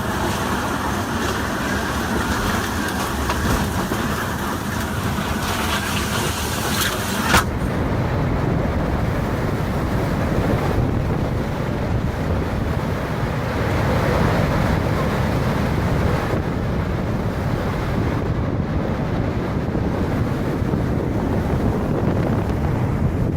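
Strong storm wind blowing hard across the microphone as a dense, steady rush. A sharp click about seven seconds in, after which the rush sounds deeper.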